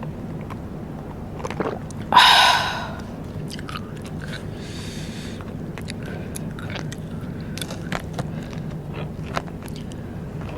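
Close-miked eating: a person biting and chewing rice paper snacks, with many small mouth clicks and one short, louder sound about two seconds in.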